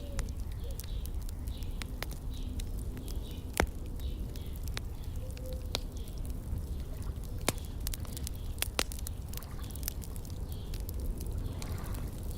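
Wood fire crackling, with irregular sharp pops and snaps, one louder pop about three and a half seconds in, over a steady low rumble.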